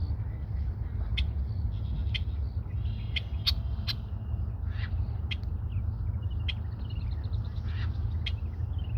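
Red-winged blackbird calling: short, sharp notes about once a second, with a quick run of rapidly repeated notes near the end, over a steady low rumble.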